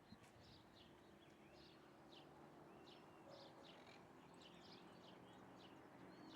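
Small birds chirping faintly: short, high, repeated chirps, several a second, over a faint steady low hum.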